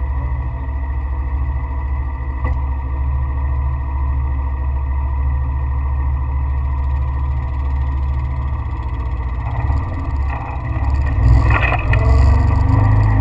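A vehicle driving, its engine and road noise a steady low rumble that grows louder and rougher about ten seconds in, with a sharp knock shortly after.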